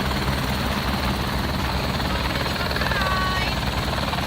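Helicopter running steadily, its rotor chop a fast even pulsing under the engine noise.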